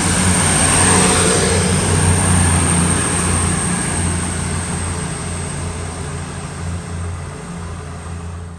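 Class 222 Meridian diesel multiple unit pulling out. Its diesel engines run with a steady low hum over a wash of train noise that slowly fades as it moves away.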